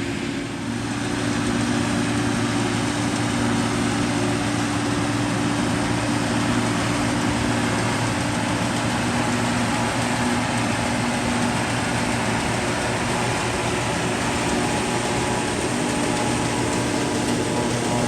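Farm tractor engine and forage harvester running steadily while chopping hay into a wagon, getting a little louder about a second in.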